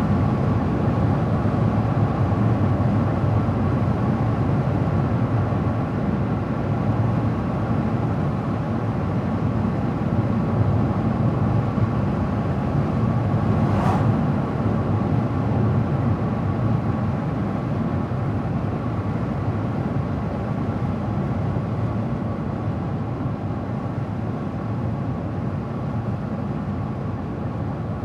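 Car driving along a road: steady tyre and engine noise, heavy in the low end, easing off gradually over the second half. A single faint click about halfway through.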